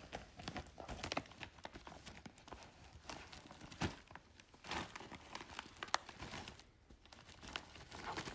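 Packaging crinkling and rustling as it is handled, with scattered irregular clicks and taps.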